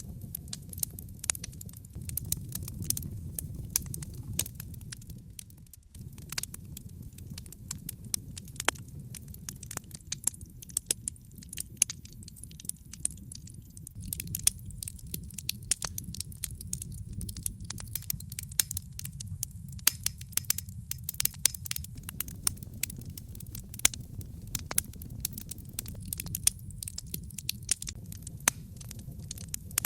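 Wood fire burning in a fireplace: a steady low rumble of flames with frequent sharp crackles and pops from the burning logs. The low rumble briefly dips about six seconds in.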